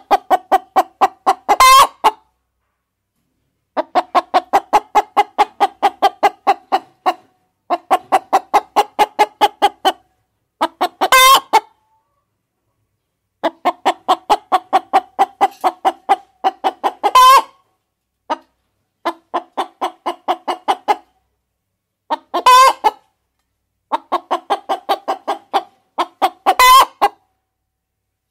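Hens clucking in fast runs of short, evenly spaced clucks, about four or five a second. Five runs end in a loud, high squawk, like a cackle. Short, completely silent gaps separate the runs.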